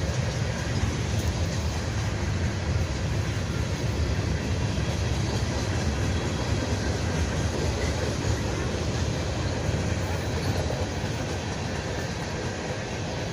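A vehicle's engine running with a steady low rumble, easing slightly near the end.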